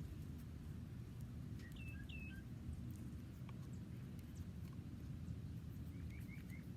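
Small birds chirping faintly over a steady low rumble: two hooked chirps about two seconds in, and a quick run of four short chirps near the end.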